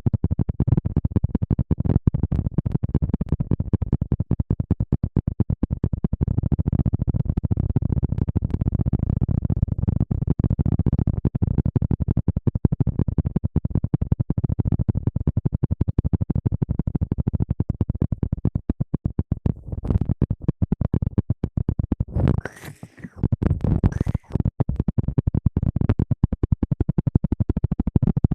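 Close-miked ASMR rustling and scratching on the microphone: a dense, rapid, crackling rubbing. About three-quarters of the way through it drops out briefly and two short hisses follow.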